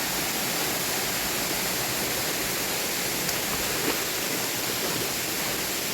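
Steady rush of a waterfall's water cascading down its tiers.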